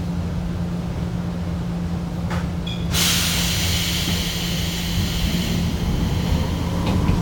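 Fujikyu 1000 series electric train heard from on board: a steady low running hum with a steady tone. About three seconds in, a sudden loud hiss of air starts and keeps going.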